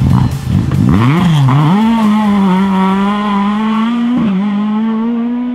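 Rally car engine revving hard: the pitch swoops up and down twice about a second in, then the engine is held at high, steady revs that creep slowly higher.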